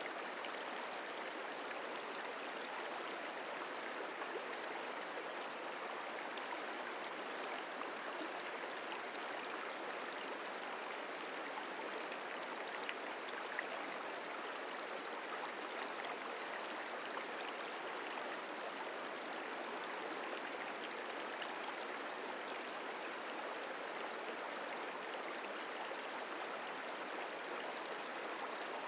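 The Merced River flowing: a steady, even rush of moving water.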